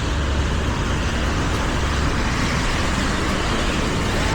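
Steady rushing noise of a mountain bike ride through fresh snow: wind on the microphone and the rolling of the tyres, with a low rumble and no sudden sounds.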